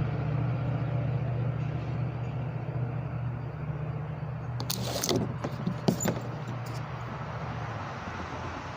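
Wiring harness being handled: a brief clatter of plastic connector clicks and rattles about five seconds in, over a steady low mechanical hum.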